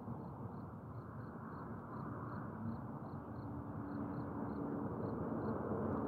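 Union Pacific freight train's covered hopper cars rolling slowly around a curve, a steady rumble of wheels on rail. A faint steady hum joins about halfway through and gets a little louder.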